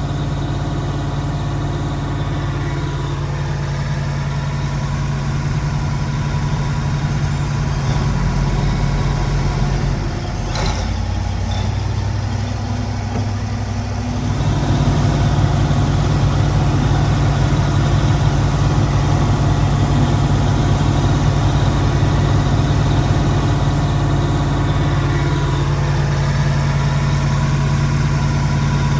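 Massey Ferguson V8 tractor engine running with a steady low drone. About ten seconds in its note dips for a few seconds, then it comes back up and runs louder.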